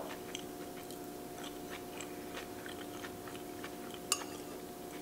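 Close-up chewing of a mouthful of food: faint soft mouth clicks and smacks, with a sharper click about four seconds in, over a faint steady hum.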